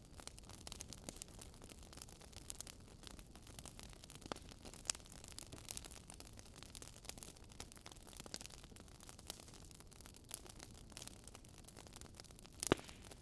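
Wood fire crackling: a steady low hiss with irregular sharp pops and snaps, one louder pop near the end.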